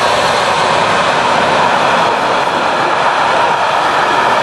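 Electric-hauled container freight train passing close by, its wagons rolling along the track in a loud, steady rush of noise.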